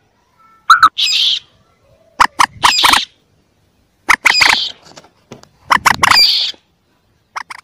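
Common moorhen calls: repeated groups of a few sharp, clicky notes, each followed by a harsh squawk, coming about every one and a half to two seconds.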